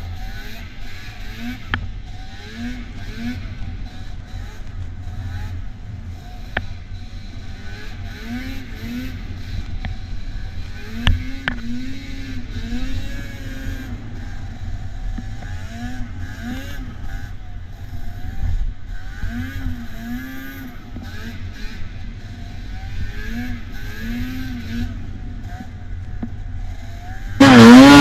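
Vintage two-stroke snowmobile engines running, blipping the throttle up and down in short repeated rises and falls over a steady low rumble. Near the end, one sled revs up loud and close, its pitch climbing.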